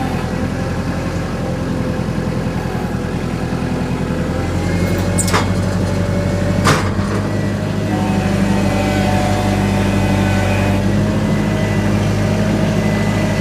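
An engine running steadily under load, getting a little louder about eight seconds in, with two sharp clicks at about five and a half and seven seconds in.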